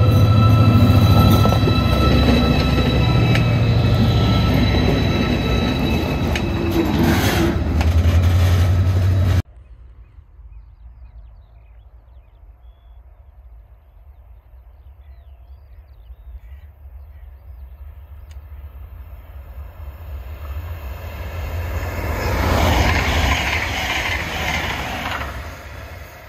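Stadler Eurodual (class 159) locomotive hauling a freight train past at close range: a loud steady running noise with a low hum and steady tones, cut off suddenly about nine seconds in. After quieter background, a Siemens Desiro HC (class 462) electric multiple unit passes, its sound swelling to a peak and fading near the end.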